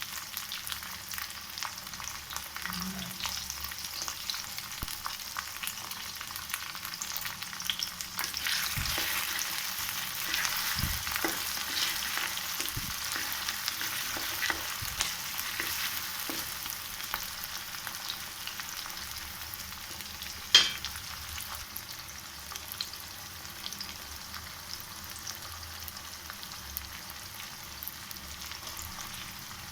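Food sizzling as it fries in a pan while being stirred, with many small scrapes and clicks of the utensil. The sizzle is somewhat louder in the first half, and one sharp ringing knock of the utensil against the pan comes about two-thirds of the way through.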